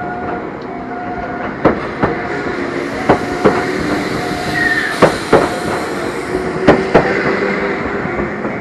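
Enoden electric train running, heard from inside the car: a steady rumble with the wheels clicking over rail joints in pairs about a third of a second apart, four pairs in all. A brief high tone sounds about halfway through.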